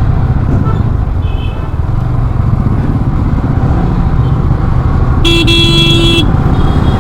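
Motorcycle riding in traffic: a steady rumble of engine and road noise. A faint short horn toot comes about a second in, and a vehicle horn sounds for about a second near the end.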